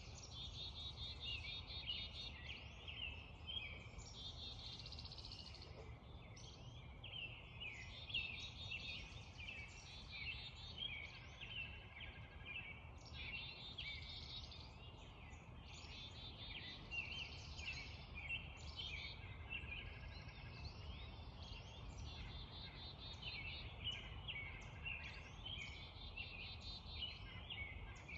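Spring dawn chorus: many songbirds singing over one another, with chirps, trills and fast repeated notes, over a steady low rumble.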